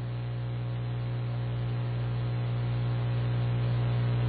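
Steady electrical hum and hiss on a LiveATC air traffic control radio feed between transmissions, growing slowly louder.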